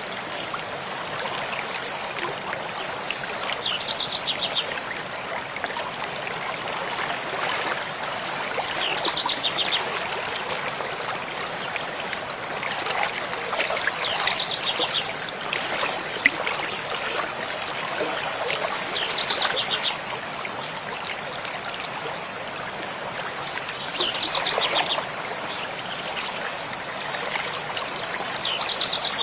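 Mountain stream flowing steadily, with a bird singing the same short phrase of rapid high notes about every five seconds.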